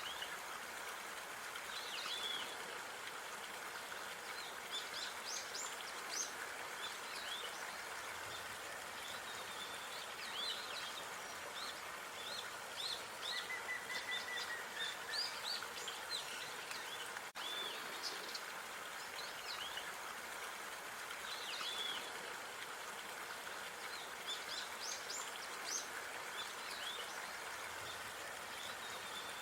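Outdoor park ambience: small birds chirping and calling in short, frequent high notes over a steady background hiss.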